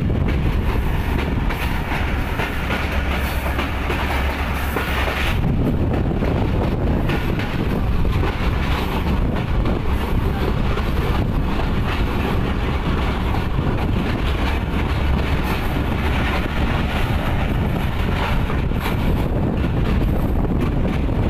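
Passenger train running along the track, heard from aboard: continuous running noise with wheels clattering over the rails. The sound changes character about five seconds in.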